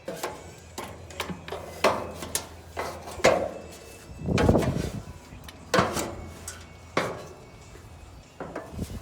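Irregular knocks and clunks of dryer panels and parts being handled and set down during disassembly and cleaning, about eight in all, with a longer, heavier thud near the middle.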